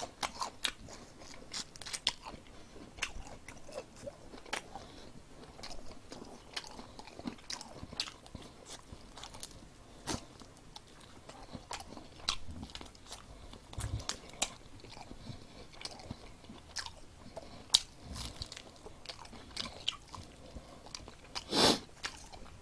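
Close-up eating of crispy fried chicken: irregular crunchy bites and chewing of the battered coating. One louder burst near the end.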